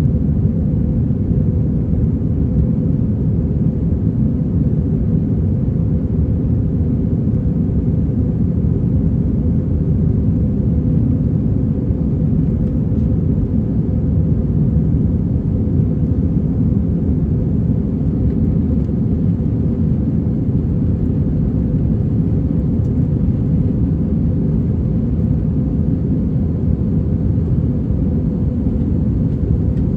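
Airbus A321-231 cabin noise heard from a window seat: a steady, deep rumble of the engines and airflow with a faint steady hum, unchanging throughout.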